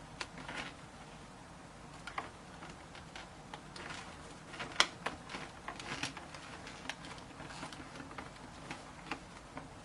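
Hands fitting padded cheek pads back into a motorcycle helmet: scattered light clicks and taps, with one sharper click about five seconds in.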